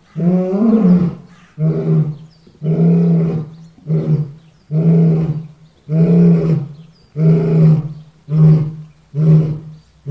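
Lion roaring: a series of deep calls, about one a second, the later ones shorter.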